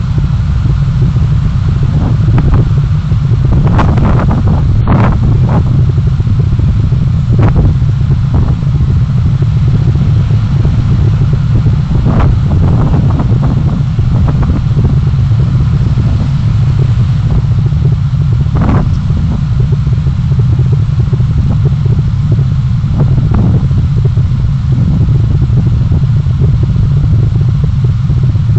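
A moving road vehicle's engine and road noise as picked up by a dashcam: a loud, steady low rumble, broken by a scattering of short knocks or clicks.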